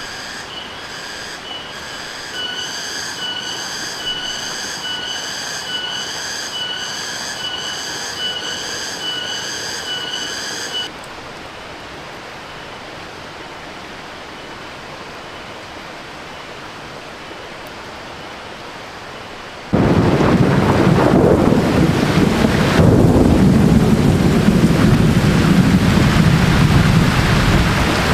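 Heavy rain that comes in abruptly about twenty seconds in and is the loudest sound here. Before it there is a quieter steady hiss, and for the first ten seconds or so a high whistling tone that pulses evenly and then stops suddenly.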